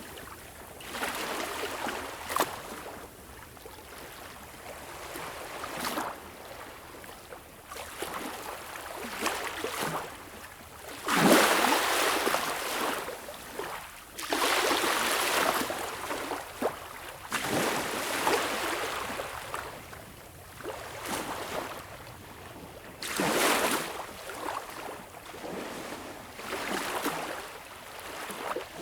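Small waves lapping and breaking on a beach in slow, uneven swells every few seconds, each one a hiss of water that rises and then washes back down.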